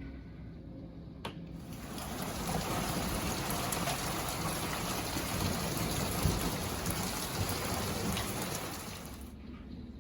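Heavy rain pouring down as a steady, dense hiss. It starts abruptly after a brief click and cuts off suddenly near the end.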